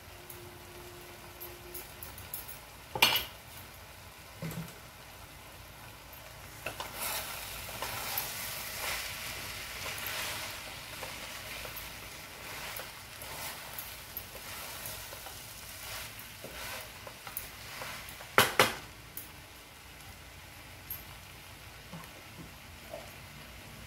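Rice and spices frying in ghee in a pan on a gas stove: a steady sizzle that swells a few seconds in, with stirring. Sharp clinks of a utensil against the pan, one about 3 s in and a louder pair about two-thirds of the way through.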